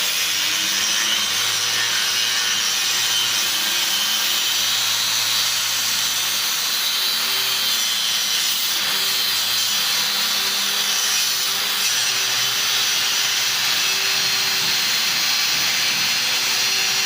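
Power cutting tool running continuously while it cuts Z-bracket stock: a steady loud hiss with a wavering motor hum underneath.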